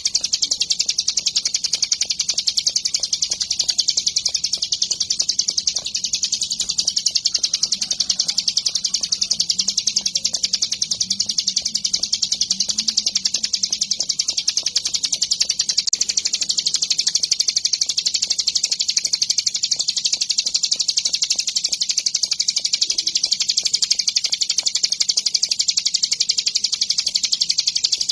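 Ciblek gunung, a mountain prinia, singing a continuous, very rapid high trill in full, vigorous song.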